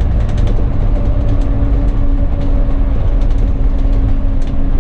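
Bus engine running under way with heavy road rumble inside the driver's cab: a steady engine hum holding one note, with small rattles and clicks from the bus's fittings throughout.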